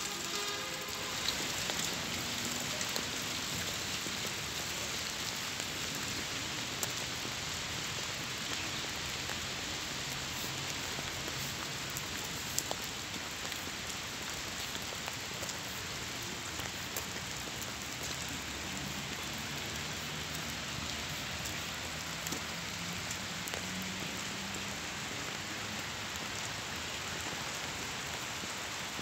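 Steady rain falling on pavement and puddles: a continuous even hiss with scattered drop ticks.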